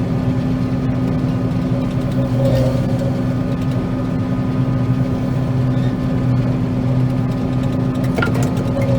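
John Deere 9500 combine harvesting soybeans, heard from inside the cab: a steady drone of engine and threshing machinery, with a few short clicks near the end.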